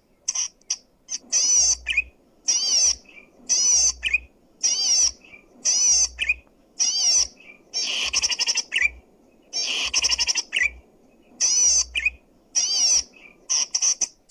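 Zitting cisticola (cici padi) singing: a steady series of high, rapid buzzy chattering phrases, each about half a second long and coming roughly once a second, with short lower notes in between.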